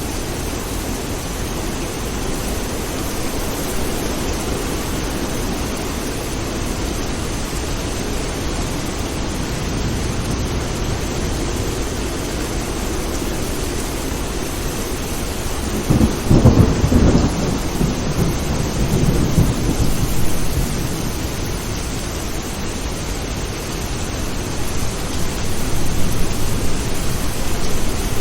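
Steady rain falling, with a clap of thunder breaking in suddenly about halfway through and rumbling away over several seconds; a further low rumble builds near the end.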